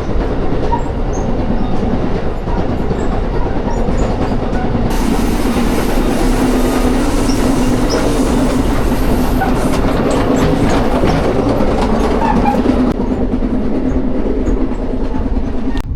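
Passenger train running along the track, heard on board: a steady rumble with wheel clatter. The hiss grows louder and brighter from about five seconds in until near the end.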